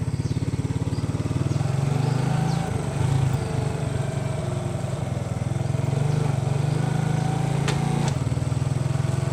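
Small underbone motorcycle engine running under way, a steady pulsing drone that picks up a little about a second and a half in.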